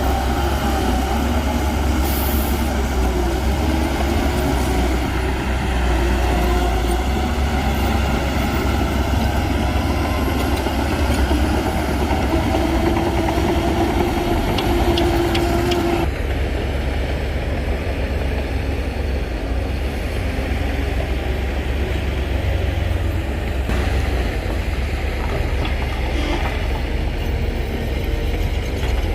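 Shantui DH17C2 crawler bulldozer's diesel engine rumbling under load, with squealing and clanking from its steel tracks. About halfway through, the sound turns abruptly duller.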